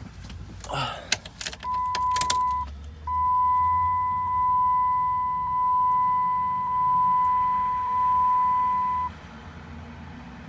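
Clicks and rattles of the cab being handled, then the Dodge Ram 3500's dashboard warning chime with the ignition switched on before cranking: a steady high beep for about a second, then again for about six seconds before it cuts off. The engine has not yet been started.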